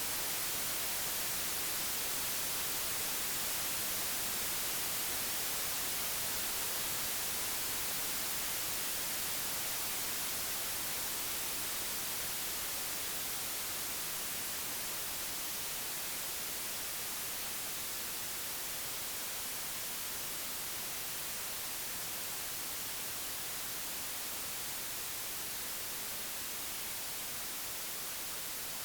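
Computer-generated white noise: a steady, even hiss, strongest in the treble, easing slightly in level partway through.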